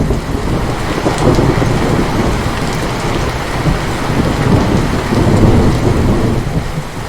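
Heavy rain falling steadily, with a long roll of thunder rumbling through it after a sudden onset just before the start.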